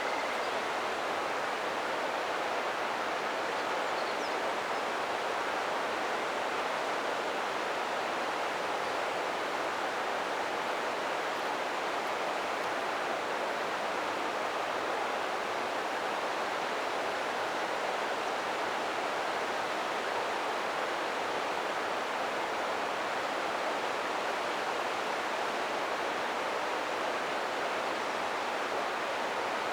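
River water rushing steadily over rocks, an even unbroken roar of flowing water.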